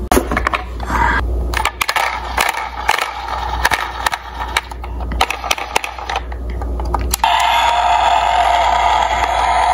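Small diecast toy cars clicking and clattering against each other, then a steady rolling whir from about seven seconds in.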